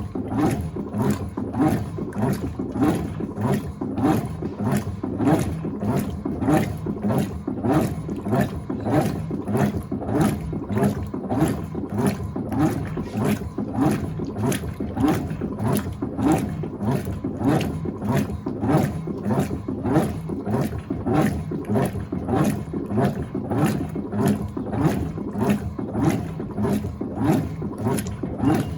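Electrolux Turbo Acqua Jet (LTA15) top-load washing machine agitating, its agitator churning the water and clothes back and forth in an even rhythm of about two strokes a second.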